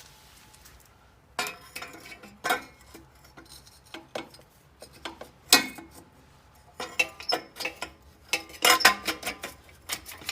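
Metal exhaust pipe sections and a band clamp being handled and fitted together: a run of irregular clanks and clinks, some ringing briefly. The loudest come about halfway through and near the end.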